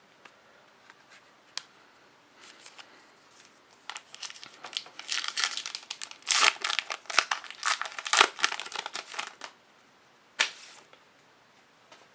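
Trading-card pack wrapper being torn open and crinkled by hand, a dense crackling run of several seconds starting about four seconds in, with one more short crinkle near the end.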